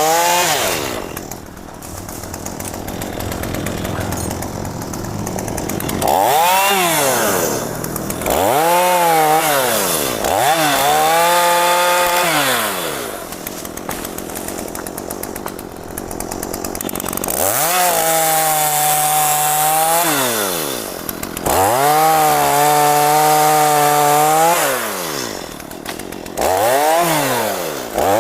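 Two-stroke chainsaw cutting mahogany, revved to full throttle about six times for one to three seconds each, its pitch sweeping up and back down, and dropping to a rough idle between cuts.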